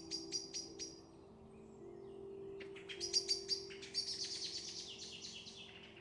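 A small bird singing: a short run of sharp high chirps at the start, then a longer, faster trill of high notes from about two and a half seconds in, over faint held tones of background music.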